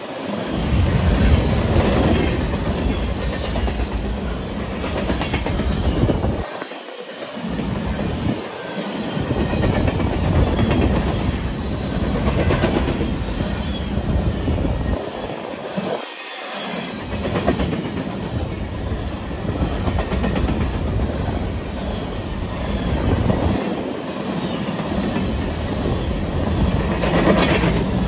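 Freight train's covered hopper cars rolling past close by: a steady rumble of steel wheels on the rails, with a high wheel squeal that keeps coming and going. The rumble drops away briefly twice.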